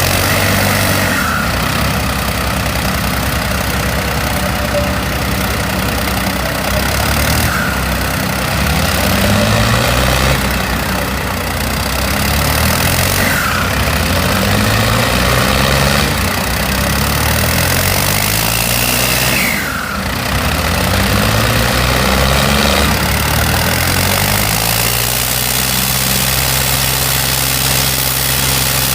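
Tractor diesel engine straining under a pulling load, its pitch climbing again and again as it is revved. It settles to a steady note near the end.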